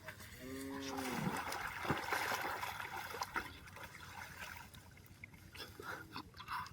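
Water splashing, then trickling and dripping as the rush dies away over a few seconds. About half a second in, a short pitched call falls in pitch.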